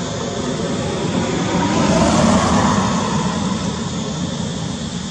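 A steady vehicle rumble that swells to its loudest about two seconds in and then eases off, as of a vehicle passing.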